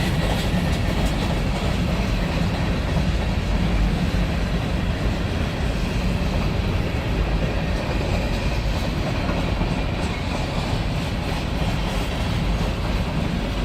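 Long freight train rolling slowly past: a steady, continuous rumble of the cars' wheels on the rails.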